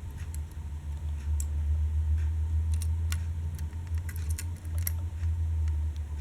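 Scattered light clicks and taps of small hard objects being handled, over a low steady rumble; the sound cuts off suddenly at the very end.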